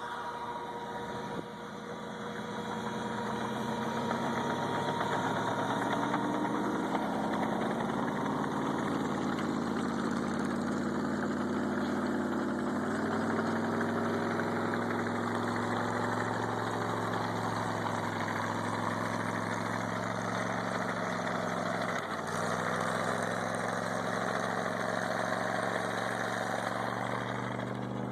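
A vehicle engine running steadily, its pitch slowly rising and falling, with a brief break about 22 seconds in.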